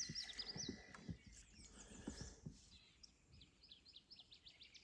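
A songbird calling faintly in a run of quick, high, downward-slurred chirps near the start, then a second run a little past the middle, with a few faint knocks early on.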